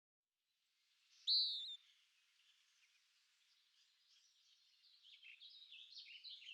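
Birdsong: one loud, clear call about a second in that rises then drops in pitch, followed by a run of quick chirping notes that grows louder near the end.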